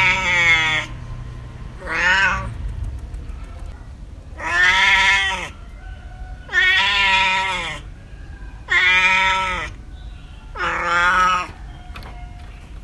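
Cat meowing repeatedly: about six meows a second or two apart, some drawn out, each falling in pitch at its end.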